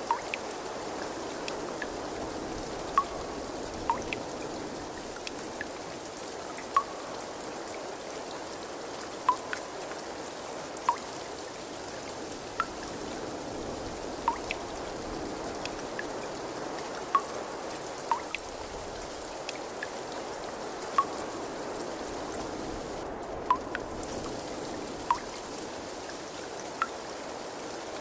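Water running with a steady trickling wash, and single drops plinking into water about every one to two seconds.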